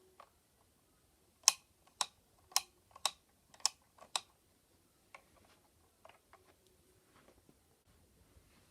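Sharp clicks of small plastic LEGO parts being handled and moved, about two a second for a few seconds, then a few fainter clicks.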